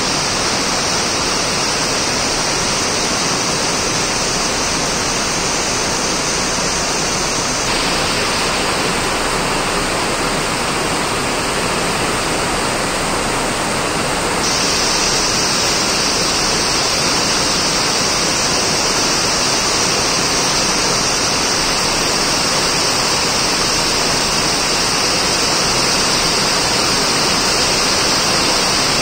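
Heavy rain pouring steadily onto a wet paved yard, a dense, even hiss with no letup. Near the middle the hiss loses some of its top for several seconds before coming back.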